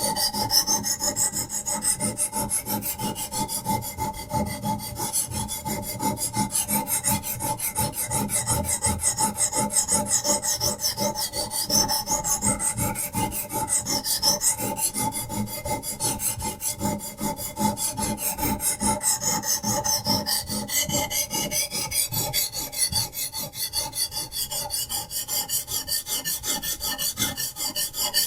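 Diamond sharpening stone on a Hapstone RS guided knife sharpener stroked rapidly back and forth along a knife blade's edge: continuous, even scraping of abrasive on steel.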